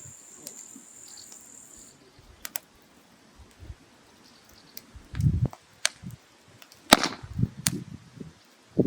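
Wood fire crackling, with sharp pops every second or so and a few dull knocks. A high steady whine stops about two seconds in.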